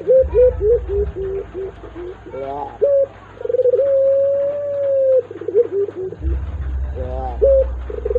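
Ringneck dove (burung puter) cooing: a quick run of short coos, then one long drawn-out coo of nearly two seconds, then another run of short coos, with a second long coo starting at the end. A low rumble sits underneath in places.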